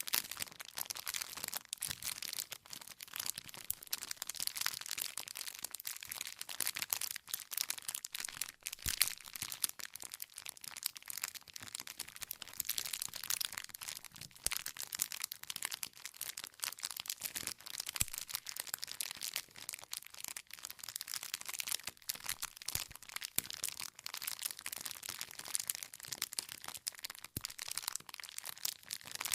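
Wood fire crackling steadily, with dense sharp pops and snaps of burning firewood throughout.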